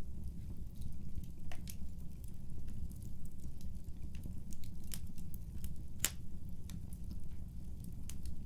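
Wood fire burning in a fireplace: a steady low rumble of the flames with scattered sharp crackles and pops from the burning wood, the loudest pop about six seconds in.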